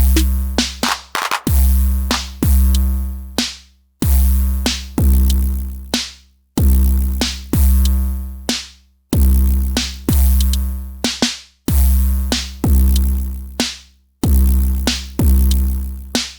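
Elektron Syntakt drum machine playing a looped drum pattern: a long, deep bass drum with sharp clicky hits and short pitched tones over it. The phrase repeats about every two and a half seconds, each time fading out before it starts again.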